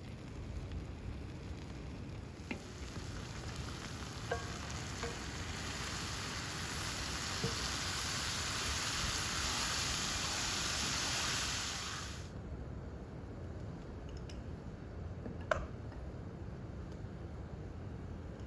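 Chopped tomatoes sizzling in a hot, wide black wok while a wooden spatula stirs them. The sizzle starts a couple of seconds in, holds steady, and cuts off suddenly a little after the middle, leaving a quieter hiss with a few light knocks.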